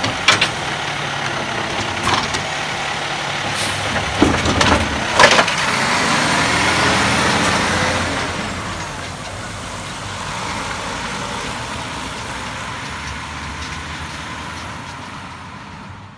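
Garbage truck's engine running, with several sharp bangs and clanks in the first five seconds. The engine grows louder for a few seconds, then steadily gets quieter.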